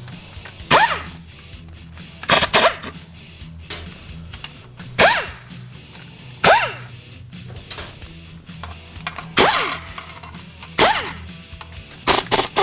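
Sharp metallic knocks and clanks of hand tools working on a Ford 5R110W transmission's filter, spaced irregularly about one to three seconds apart, some trailing a brief falling ring, over steady background music.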